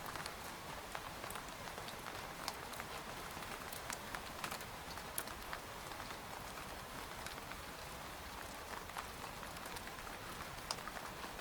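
Steady rain pattering on a tent, a continuous hiss with many sharp, irregular drop ticks on the fabric.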